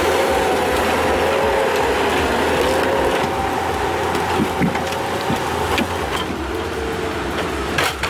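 Heavy machine running with a steady, slightly wavering engine hum, a few clicks and knocks later on and a short cluster of them near the end.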